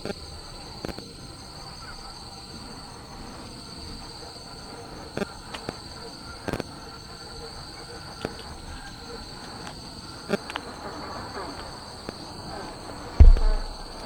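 Night insects chirring steadily at a high pitch, with scattered light taps of raindrops on the tent. A single heavy low thump about 13 seconds in.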